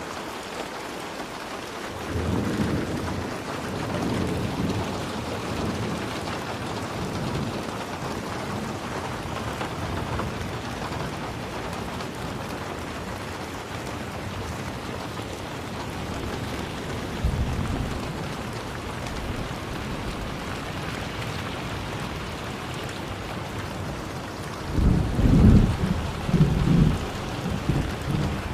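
Steady rain falling, with low rolls of thunder; a louder rumble of thunder starts near the end.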